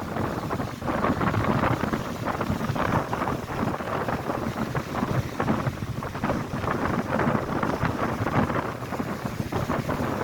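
Strong, gusty wind buffeting the microphone, over the rush of lake waves breaking on the shore.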